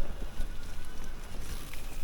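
Wind buffeting the microphone over the rumble of an electric mountain bike being ridden on rough ground, with a few light clicks and rattles.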